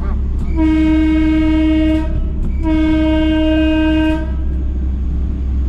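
Train horn sounded twice in two steady blasts of about a second and a half each, over the rail vehicle's engine running steadily.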